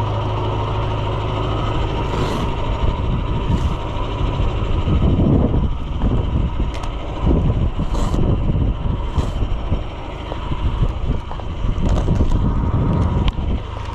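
Farm tractor engine running steadily, with gusts of wind buffeting the microphone from about five seconds in.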